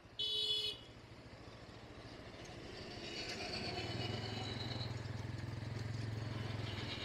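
Motorcycle engine running, growing louder over the first few seconds and then holding steady. A short high-pitched sound lasting about half a second comes just after the start.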